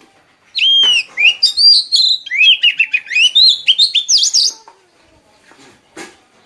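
A songbird sings one loud, rapid warbling phrase of quick rising and falling whistled notes, starting just over half a second in and lasting about four seconds. A brief faint click follows near the end.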